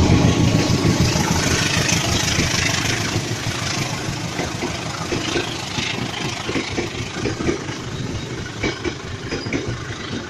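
Diesel locomotive-hauled passenger train passing. The locomotive's engine rumble is loudest at first and fades, then the carriage wheels clack over the rail joints from about halfway through.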